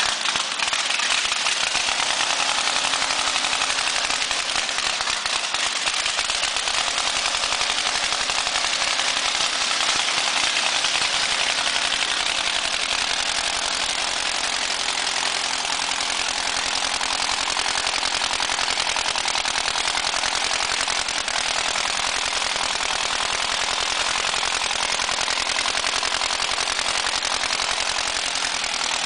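V8 engine running steadily at idle.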